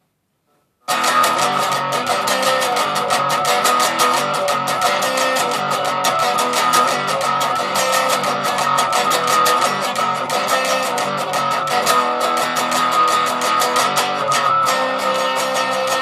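Les Paul electric guitar played through an amplifier's plain distortion channel with no effects. It comes in about a second in with a steady stream of rapid picked notes.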